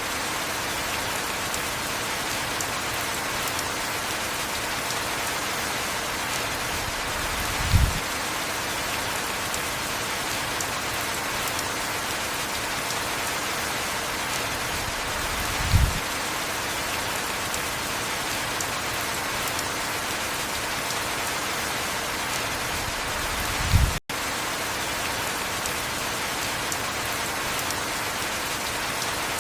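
Heavy rain falling steadily. A short, low thump comes about every eight seconds, three times in all, and the sound cuts out for a split second right after the third.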